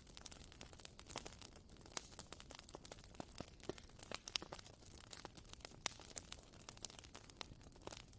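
Wood fire crackling: irregular sharp pops and snaps, many a second, over a soft hiss.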